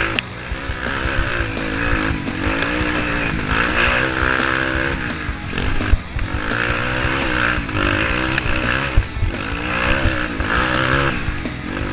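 Vehicle engine revving up and falling back again and again, its pitch climbing and dropping in several surges.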